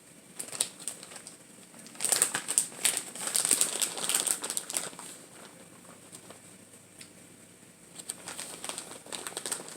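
Crinkling of a plastic bag of shredded cheese being handled and shaken out. It comes in bursts: a few crackles at the start, a dense stretch from about two seconds in, and more near the end.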